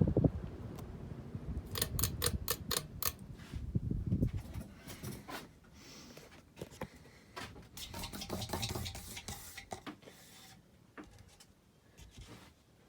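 Air from a running ceiling fan buffeting the microphone as an uneven low rumble in the first few seconds, with a run of sharp clicks and rustles on and off through the middle.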